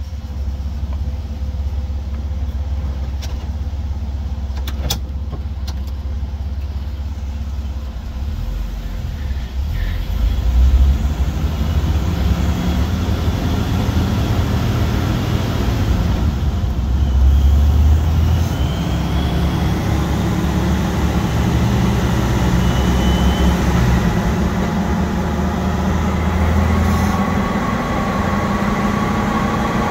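Jeep Wrangler TJ's 4.0-litre inline-six engine, breathing through its stock airbox, idling steadily, then driven in gear on a chassis dyno at part throttle from about ten seconds in. It gets louder and its engine speed rises and falls as the rollers turn at low road speed.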